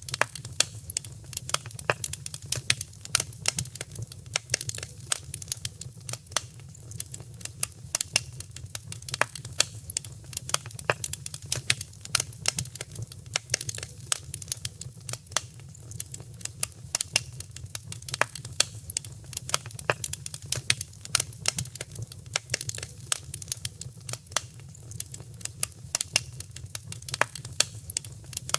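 Wood fire crackling: a dense, irregular run of sharp snaps and pops over a steady low rumble.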